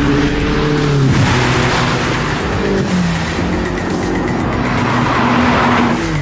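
Ferrari SF90 Stradale's twin-turbo V8 running hard at speed, its engine note holding and then dropping in pitch several times.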